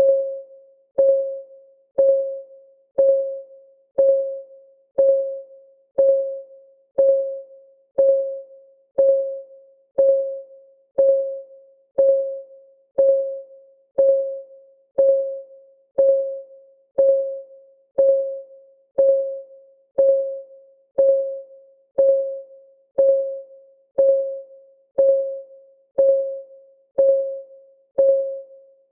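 Clock ticking sound effect, one tick a second at a steady pace. Each tick is a short click with a brief ringing tone that fades quickly.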